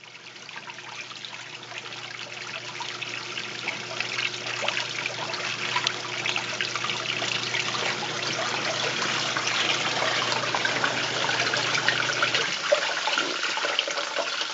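Water rushing and splashing in the tub of a 1990 Toshiba Ginga 3.0 twin-tub washing machine, growing steadily louder. A low steady hum runs underneath and stops about twelve seconds in.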